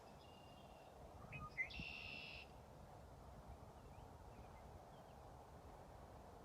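Near silence with a faint steady background, broken about a second and a half in by a short bird call with a sharp click.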